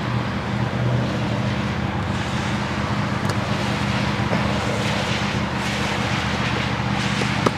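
A steady machine drone with a constant low hum and an even rushing noise over it, unchanging throughout, with a couple of faint clicks near the end.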